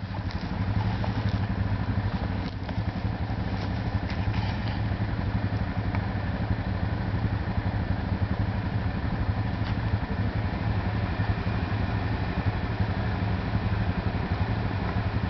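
A vehicle engine idling steadily, an even low hum, with a few faint ticks.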